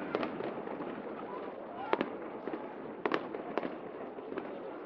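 Aerial fireworks bursting: several sharp bangs at irregular intervals, the strongest about two and three seconds in, over a steady background of crowd noise.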